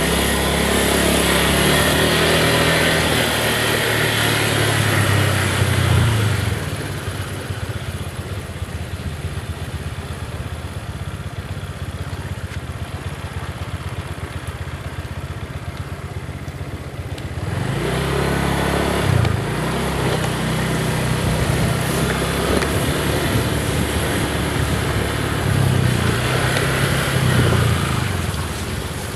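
Motorcycle engine running under way: it pulls harder for the first six seconds or so, drops to a lower, quieter run, then picks up again about eighteen seconds in.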